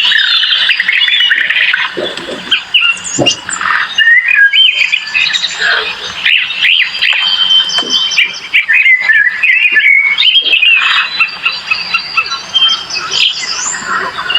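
A dense chorus of birds chirping and whistling, many short calls overlapping and gliding up and down in pitch.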